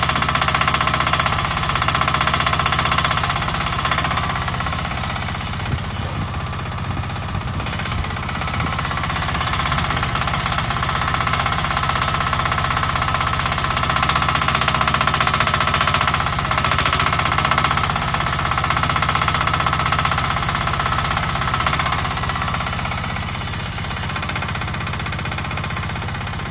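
Small diesel engine of a 1-ton mini excavator running, with a rapid steady chatter and a high hydraulic whine that fades twice and comes back as the hydraulics are worked.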